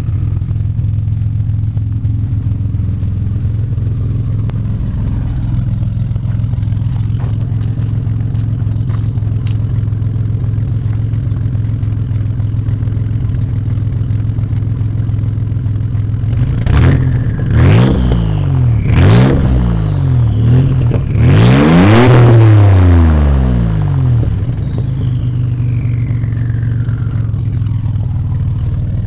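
Nissan 300ZX Turbo's VG30ET turbocharged V6 idling through a 3-inch turbo-back exhaust, then blipped three times in quick succession and given one longer rev of about three seconds before dropping back to idle. A whistle falling in pitch follows the long rev.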